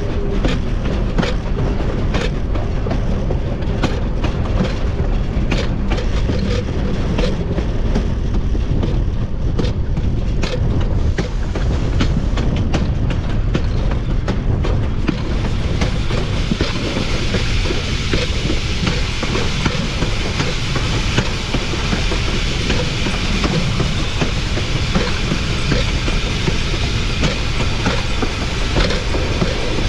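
Wheels of a narrow-gauge steam locomotive's pilot truck rolling along the rails, with a steady low rumble and many sharp clicks over the rail joints. About halfway through, a steady hiss joins, high over the rumble.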